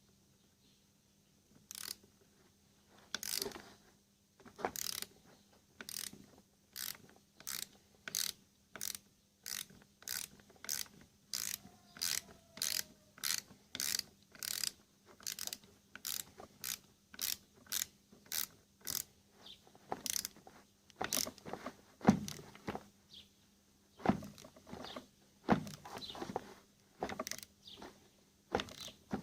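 Ratchet wrench clicking in an even run of strokes, nearly two clicks a second, as threadlocked screws are backed out of an Airmatic air-suspension compressor. Near the end come a few louder, irregular knocks and clacks of metal parts being handled.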